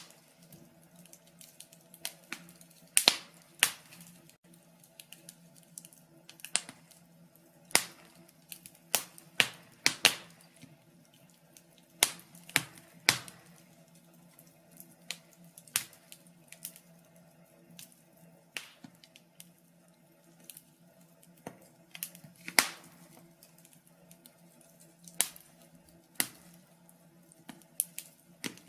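Wood fire in a fireplace crackling: irregular sharp pops and snaps, a few every couple of seconds, over a faint steady hum.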